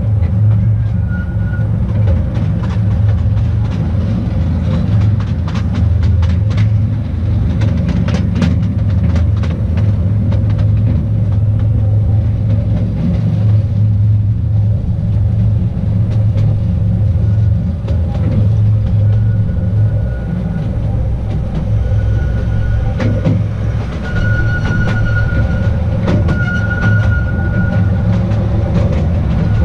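Artouste narrow-gauge tourist train running: a steady low rumble of wheels on rail with scattered clicks over the track. In the second half a thin high wheel squeal comes and goes several times.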